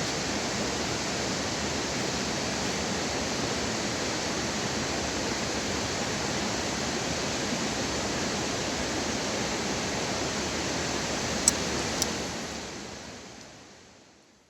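Steady rushing noise, like running water or wind, that fades out over the last couple of seconds; two short clicks just before the fade.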